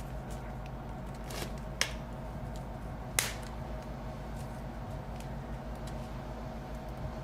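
Small clicks and taps of hand tools and screws on a MacBook Air's metal case during keyboard reassembly, with two sharp, loud clicks about a second and a half apart, over a steady low electrical hum.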